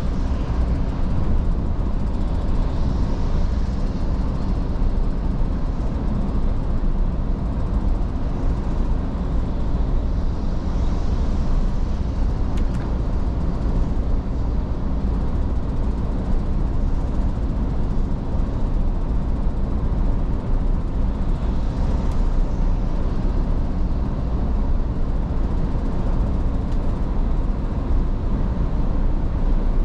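Iveco S-Way truck driving steadily, a constant low engine and road rumble with a faint steady hum.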